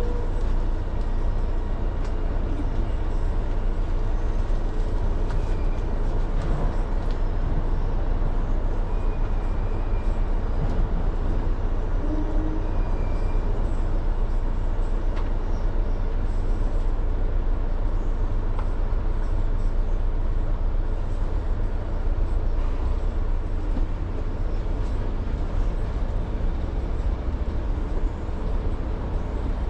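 Steady low running rumble of a moving vehicle, heard from inside, with a few faint ticks and squeaks over it.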